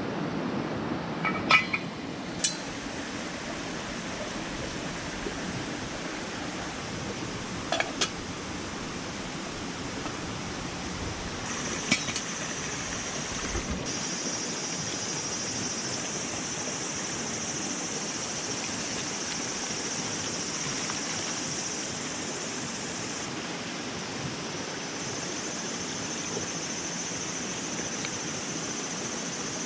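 Steady rushing outdoor noise like flowing water, with a few light clinks in the first several seconds and another about twelve seconds in. A steady high-pitched hiss joins from about twelve seconds in.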